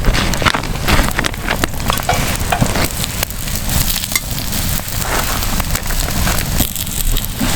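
Crackling and sizzling over a wood campfire: frequent sharp pops and snaps over a steady hiss, with a low rumble underneath.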